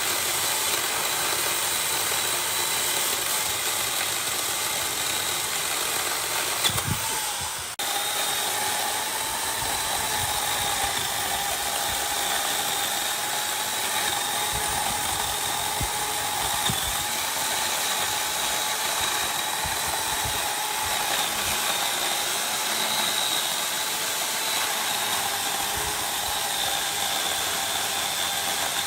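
A power tool running steadily with a constant whine, working wood. The sound breaks off sharply about seven and a half seconds in and picks up again at once.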